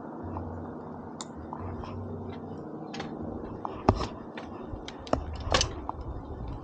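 Mountain bike on a trail: a steady low rumble with scattered sharp clicks and rattles, the loudest a little under four seconds in and again around five and a half seconds.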